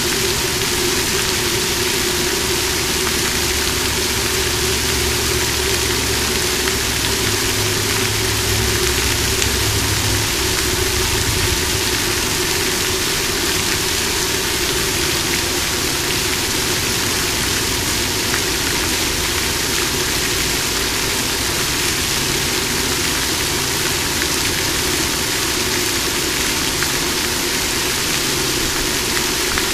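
Water fountain splashing steadily: an even rush of falling water with a low hum underneath.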